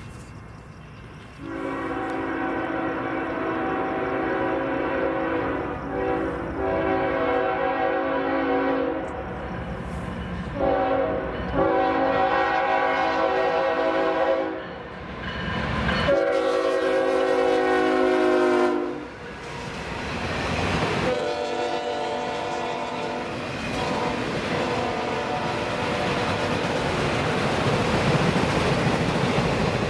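A locomotive's multi-chime air horn sounds four blasts, the first one longest, a pattern typical of a grade-crossing warning; the third blast ends with a falling pitch. The steady rumble and wheel noise of the passing train then builds up.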